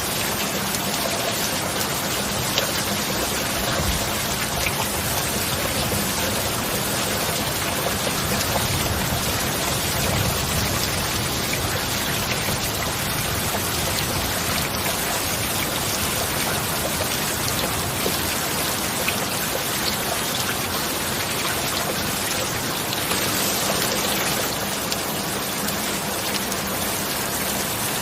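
Steady rain: a dense, even hiss with scattered sharper ticks of single drops, and a faint steady low tone underneath.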